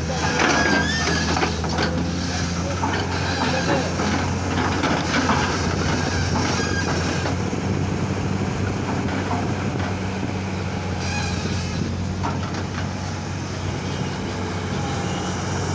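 Diesel engine of a JCB backhoe loader running steadily while it works, with scattered clanks and rattles over the engine hum.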